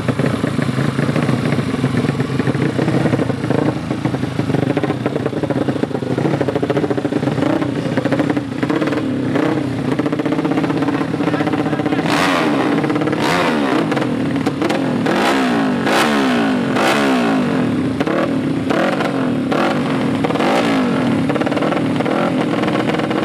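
Drag-race motorcycle engines running at the start line. For the first half they hold a steady fast idle. From about halfway through they are revved hard and repeatedly, the pitch sweeping up and down with each throttle blip.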